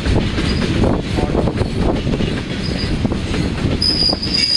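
Freight train of tank cars rolling past close by: a steady rumble with clattering wheels on the rails, and a high, steady wheel squeal setting in near the end.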